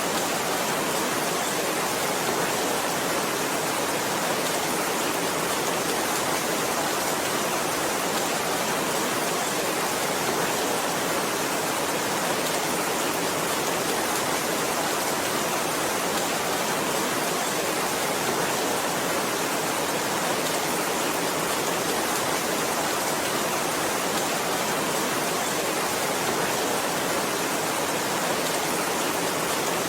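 Heavy rain falling steadily: a dense, even hiss with no single drops, thunder or changes standing out.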